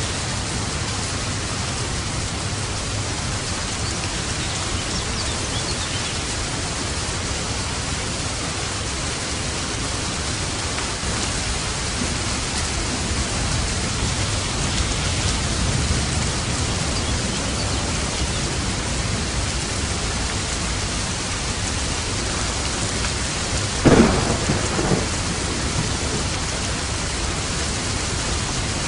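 Steady heavy rain with low rumbling thunder that swells in the middle, and a sharp crack of thunder followed by a smaller one near the end.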